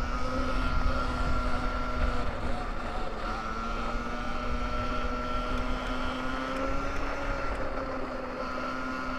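RFN electric dirt bike's motor whining steadily while being ridden, its pitch wavering slightly with speed, over a low rumble.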